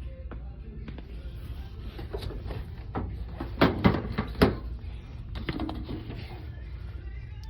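A quick cluster of sharp knocks and clacks, about three and a half to four and a half seconds in, over a steady low hum.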